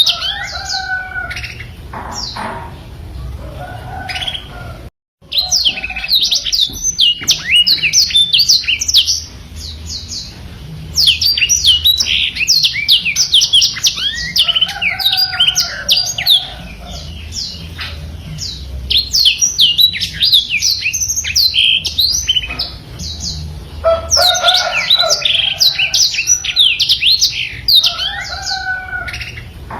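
Black-throated canary (blackthroat) singing vigorously in long rapid rolling phrases of high chirps and trills, with short pauses between phrases and a brief cut-out about five seconds in.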